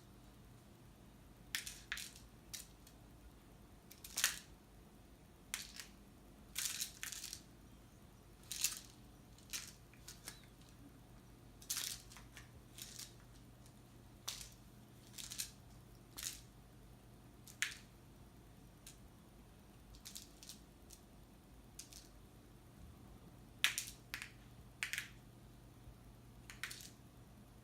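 A cat playing with a toy mouse: short, irregular scuffs and rustles as the toy is batted, grabbed and dragged, coming every second or so.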